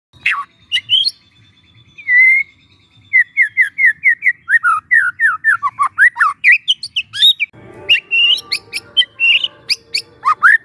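Young white-rumped shama (murai batu) singing: sharp high whistled calls, then a fast run of short slurred notes, about four or five a second, dropping lower in pitch over several seconds. From about halfway through, a steady low background noise sits under its calls.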